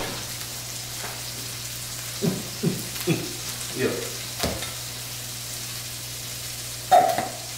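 Food sizzling steadily in a frying pan over a low steady hum. About two to four and a half seconds in come five short scraping strokes, like a spoon scooping a thick spread out of a jar, and a louder short sound comes near the end.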